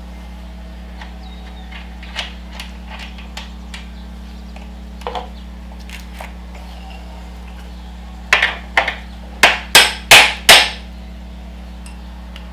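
Light metallic clicks and taps of tools and parts, then a quick run of about six loud, sharp knocks on metal, from work on a dirt bike's rear suspension linkage, over a steady low hum.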